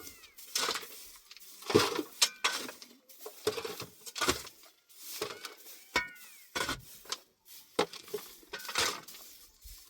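Irregular clattering knocks, roughly one every second, typical of pots and dishes being handled, with a few short high chirps about six seconds in.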